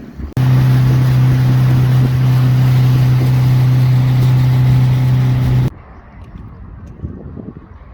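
Small boat's outboard motor running at a steady speed, a loud constant hum that starts abruptly about half a second in and cuts off suddenly after about five seconds, leaving quieter wind and water noise.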